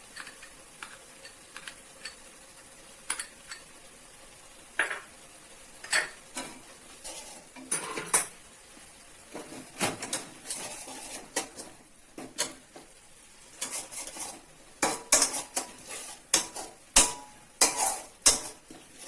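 A spatula scraping and knocking against a kadai as spice paste is stirred and fried in oil, over a faint sizzle. The strokes are scattered at first and come thicker and louder in the second half.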